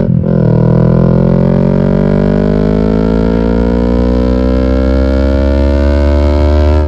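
Yamaha R6 inline-four motorcycle engine with an aftermarket European exhaust, pulling under acceleration. Its pitch climbs steadily through one long gear, with a brief dip and fall in pitch at the start and again near the end, like gear changes.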